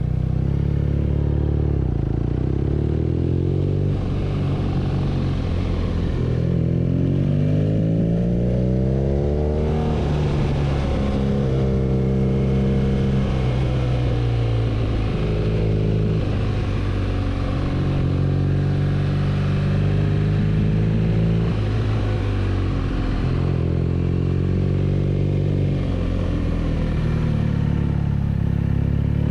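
BMW R nineT's boxer twin engine under way, its pitch rising and falling again and again as the bike accelerates, shifts and slows.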